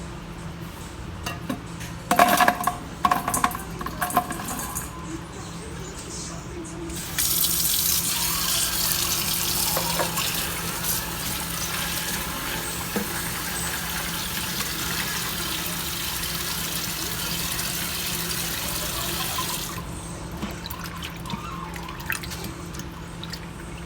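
Water running from a tap as freshly picked green chilies are rinsed, starting about seven seconds in and cutting off near the end. Before it, a few knocks and rattles of handling.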